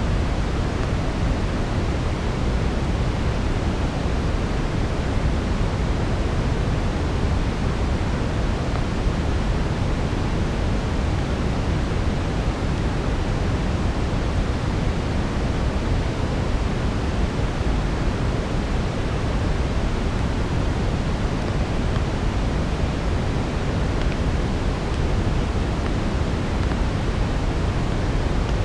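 Steady synthetic brown noise: an even, deep hiss weighted to the low end, with no distinct crackles standing out.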